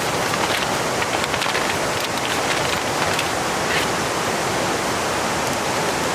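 Fast-flowing river rushing nearby: a steady, loud wash of water noise.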